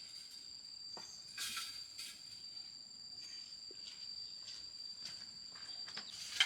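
A steady, high-pitched drone of insects, crickets or cicadas, with a few faint light knocks and rustles, one of them about a second and a half in.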